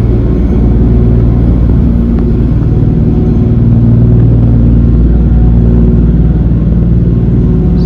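Steady low engine rumble with a deep, even hum.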